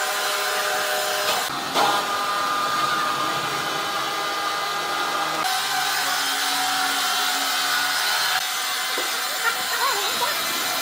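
Sawmill machinery running steadily, a mechanical whine with sawing noise. The sound changes abruptly twice, about a second and a half in and again near the middle.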